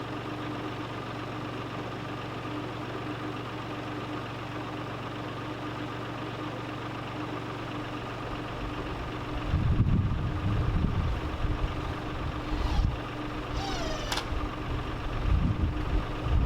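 An engine idling steadily with an even hum. From about ten seconds in, deep rumbling buffets the microphone, and a short falling squeak sounds near the end.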